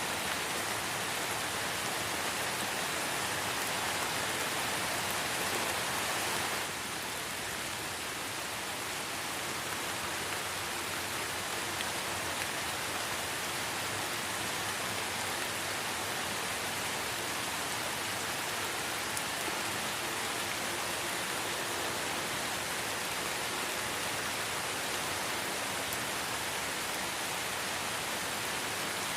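Light rain falling steadily in a forest: an even hiss of drops on leaves and ground. About six seconds in it abruptly drops a little quieter, then carries on evenly.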